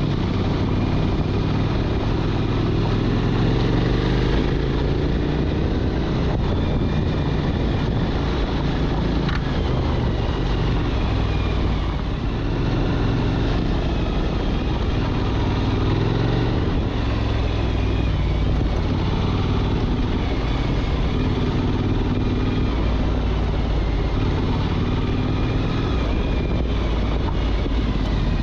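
Motorcycle engine running while riding, its note rising and falling with the throttle over steady wind and road noise.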